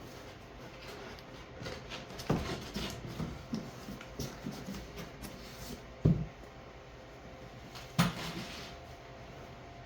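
Unpacking sounds from handling the boxed exhaust parts: small rustles and scrapes, with sharp knocks about two seconds in, at six seconds and at eight seconds.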